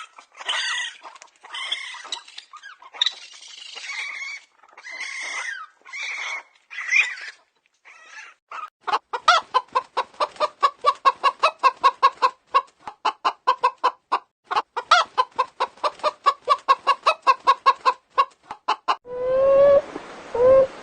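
Chickens calling: a string of separate squawking calls, then a long run of short rapid clucks, about three or four a second.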